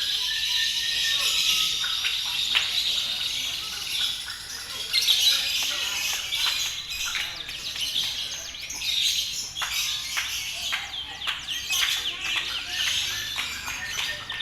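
Lovebirds singing in a dense, unbroken stream of rapid, high-pitched chirps and trills.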